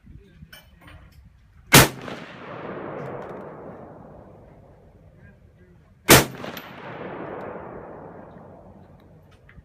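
AR-15 rifle fired twice, about four and a half seconds apart, each sharp shot followed by a long rolling echo that dies away over a few seconds.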